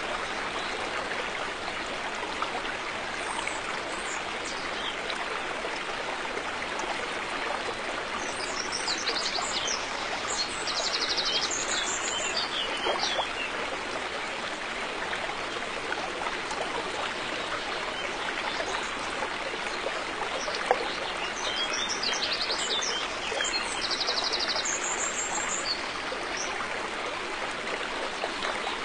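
River water flowing steadily with a constant rushing burble. Birds chirp and trill twice over it, about a third of the way in and again about three-quarters through.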